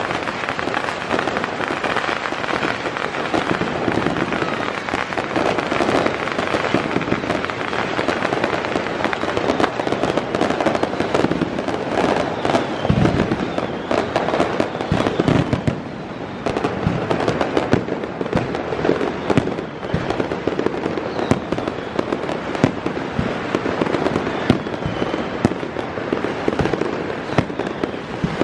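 Fireworks going off in rapid succession: dense, continuous crackling and popping, with deeper booms about thirteen and fifteen seconds in.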